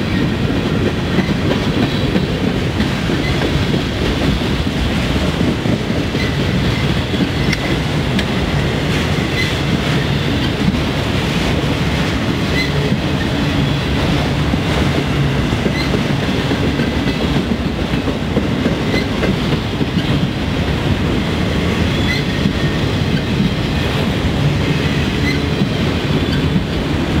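Freight train cars, mostly autoracks and covered hoppers, rolling steadily past at close range: a continuous rumble of steel wheels on rail with clickety-clack and a faint, steady high squeal.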